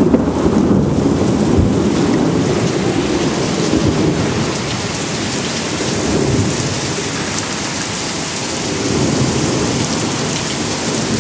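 Heavy rain pouring down in a thunderstorm: a dense, steady rush of rain, with a low rumble that is strongest in the first couple of seconds and swells again a few seconds later.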